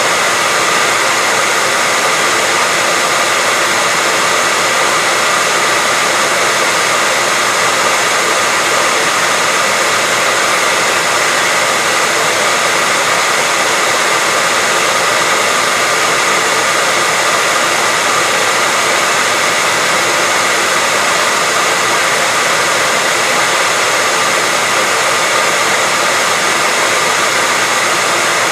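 Hair dryer running steadily, a constant loud whoosh of air with a steady whine in it, played as white noise.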